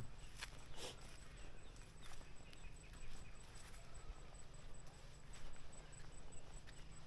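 Outdoor rural ambience: a steady low rumble with a few scattered soft clicks, mostly in the first second, and a faint steady high-pitched tone throughout.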